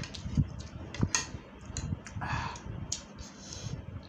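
Close-miked eating: spicy instant noodles being chewed, with a run of irregular small wet clicks and smacks from the mouth and utensils.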